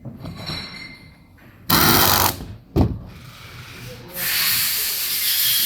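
Compressed air venting. A loud blast of about half a second comes near two seconds in, a sharp short puff follows just after, and from about four seconds in a steady hiss begins.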